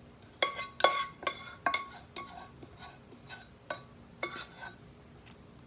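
Metal spoon clinking and scraping against a pan or casserole dish, about ten ringing knocks over four seconds, as cheese sauce is spooned out and spread.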